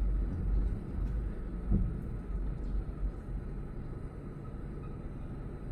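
Low, steady rumble of a vehicle idling at a red light amid street traffic, with a brief louder bump about two seconds in.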